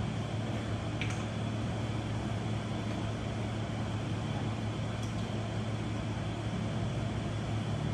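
Steady low mechanical hum, with a faint click about a second in and another about five seconds in.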